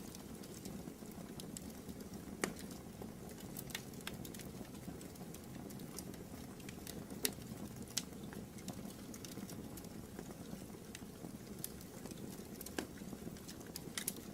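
Wood fire burning in a fireplace: a steady low rustle of flames with irregular sharp crackles and pops, the loudest about two and a half seconds in, around seven to eight seconds in, and near thirteen seconds.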